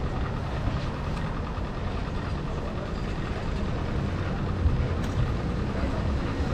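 Steady low rumble of city street traffic, heard while cycling.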